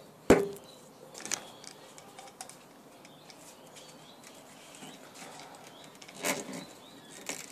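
Handling noises from fitting a window screen: a sharp knock with a brief ring about a third of a second in, then light ticks, and short scrapes near the end as the spline is pressed into the frame's channel.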